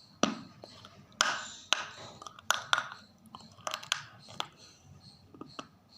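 Close-up crunching and chewing: a series of sharp, crisp bites into a hard piece, about seven loud crunches in the first four seconds, then quieter chewing.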